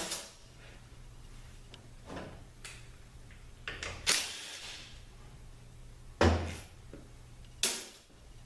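A series of separate clunks and knocks from tools and metal parts being handled and set down while an automatic transmission is taken apart. There is a short scrape just after four seconds and a heavier thump about six seconds in.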